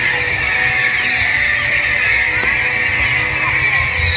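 Fireworks going off in a steady, dense hiss, with a few short whistles gliding in pitch.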